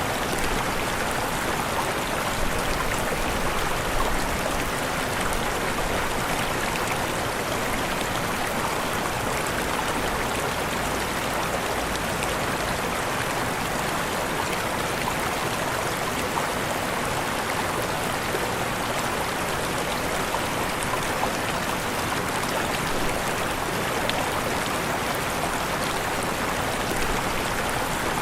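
Steady rush of falling and flowing water, an even, unbroken wash of noise with no separate splashes or changes.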